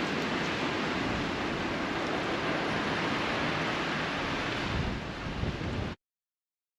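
Steady rushing wind of a snowstorm, with wind noise on the microphone, cutting off abruptly about six seconds in.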